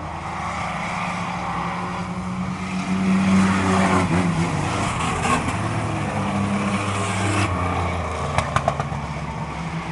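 Racing trucks' engines running at speed around an oval track, swelling louder about three seconds in as they pass close by, then easing off. A few sharp clicks near the end.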